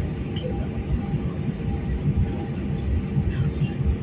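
Airliner cabin noise while rolling on the ground after landing: a loud, uneven low rumble from the wheels and airframe, with a faint steady engine hum.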